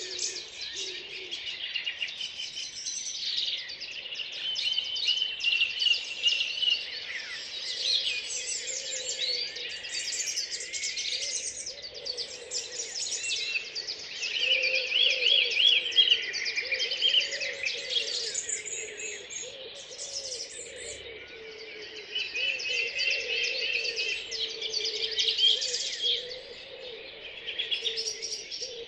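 Early-morning chorus of many songbirds singing at once in a park, overlapping trills, chirps and warbled phrases.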